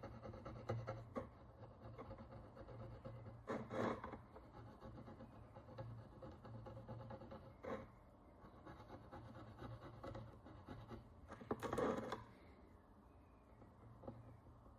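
A hand tool scratching and scraping the hard oxidation crust off an ancient bronze coin, in small strokes with a few louder scrapes about every four seconds.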